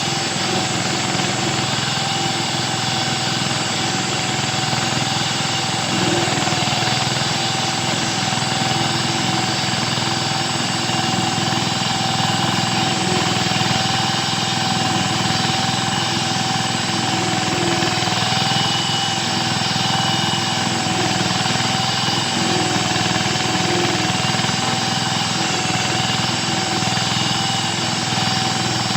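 VST Shakti 130 DI 13 hp single-cylinder diesel engine of a concrete groove cutting machine, running steadily with a rapid chugging beat and a steady high tone over it.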